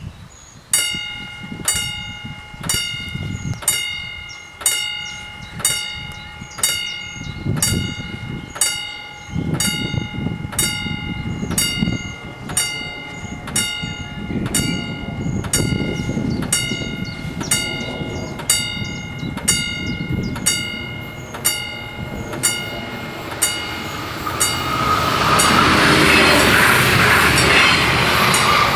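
Level-crossing warning bells ringing in a rapid, even rhythm. Underneath, the rumble of an approaching Talent diesel multiple unit grows. In the last few seconds the train passes close by, loud enough to drown the bells.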